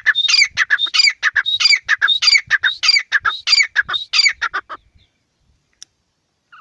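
Teetar (francolin, a partridge) calling loudly: a fast, harsh phrase repeated over and over, about two phrases a second. It stops abruptly a little under five seconds in.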